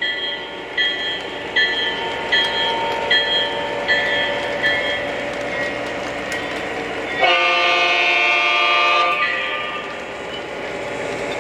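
Model diesel locomotive's onboard sound system running, with rumble under steady track noise. A bell rings over the first few seconds, then a horn sounds one chord for about two seconds.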